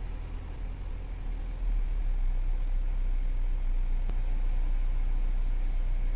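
Car engine idling, heard from inside the cabin as a steady low hum. It gets louder and fuller about a second and a half in, then holds steady.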